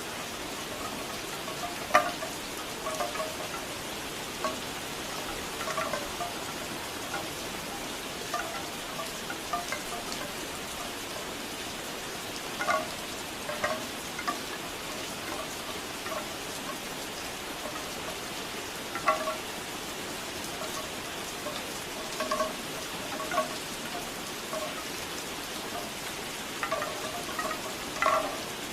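Steady rain with bamboo wind chimes knocking irregularly, the hollow wooden clacks coming in scattered clusters every few seconds.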